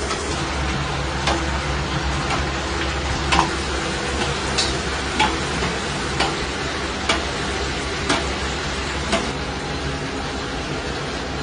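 Sticky rice deep-frying in hot oil, with a steady sizzle. Sharp knocks come about once a second as it is worked in the pan.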